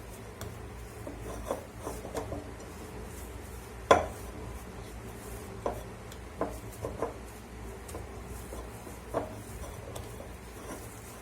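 Pizza dough being kneaded by hand, with rubbing and irregular knocks and clatters of the bowl, the loudest about four seconds in.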